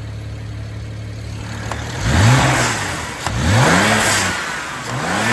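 BMW 335is N54 twin-turbo inline-six idling, then blipped three times about a second and a half apart. Each rev is followed by a hiss from the newly fitted Tial blow-off valve venting boost, the "sneezing" it was installed for.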